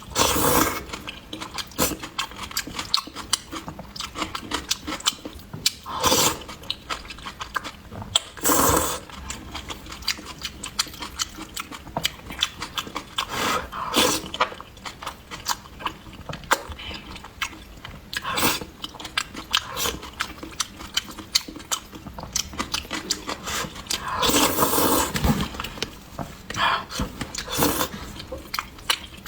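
Close-miked eating of a spicy octopus and beef-intestine stir-fry: steady wet, sticky chewing with many small clicks and smacks, and several louder mouth sounds spread through.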